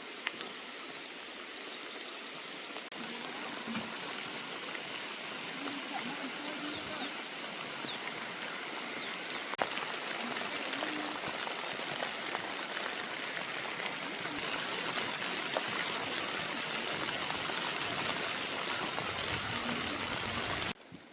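Heavy rain falling, a steady hiss that grows slightly louder and then cuts off suddenly near the end.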